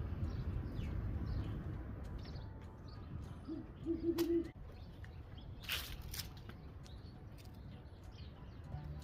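An owl gives one short, low hoot of a few notes about four seconds in, over a steady low rumble and faint chirping of small birds; two sharp clicks follow.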